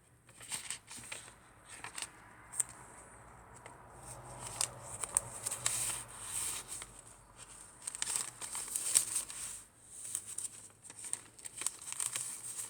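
Paper rustling and crinkling as the pages of a handmade paper junk journal are turned and handled, with scattered soft taps and clicks.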